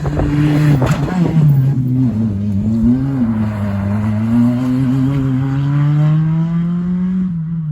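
Rally car engine driven hard on a special stage. Its pitch shifts up and down through the first few seconds, then climbs steadily as the car accelerates, and drops sharply near the end. Crackles are heard at the very start.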